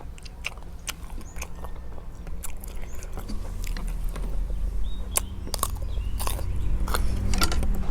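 Close-up crunching and chewing of crisp food, a rapid irregular series of sharp crunches. Under it, a low vehicle engine rumble grows louder toward the end, with a few faint bird chirps.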